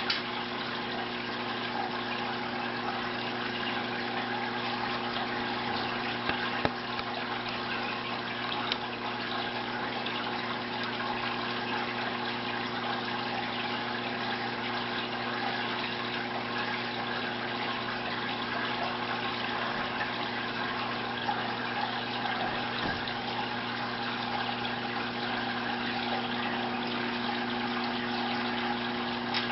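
Aquarium filter or pump running: a steady splashing rush of water with a constant low motor hum, and a few brief clicks.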